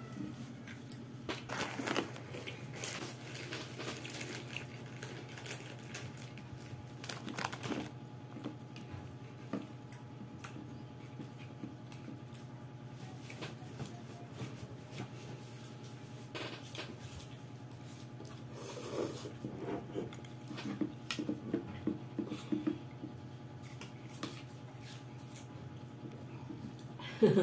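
Eating sounds: a metal fork and spoon clinking and scraping against a bowl of lomi noodles, with soft chewing and small handling noises, over a steady low hum.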